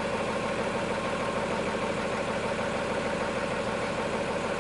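John Deere 4430 tractor's six-cylinder diesel engine running steadily, with a steady whine over the engine note.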